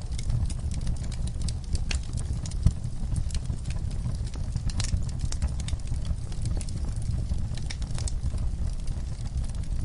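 Wood fire crackling in a fireplace: irregular sharp pops and snaps over a low, steady rumble of the flames, with one louder pop a little under three seconds in.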